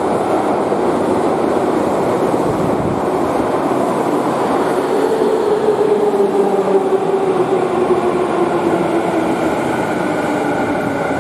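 Electric commuter train pulling into an underground station platform, wheels rumbling on the rails, with a motor whine that falls steadily in pitch from about halfway through as the train brakes to a stop.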